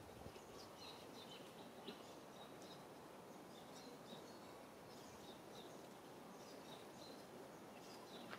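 Faint outdoor ambience: a steady low background hiss with small birds chirping over it in many short, high notes.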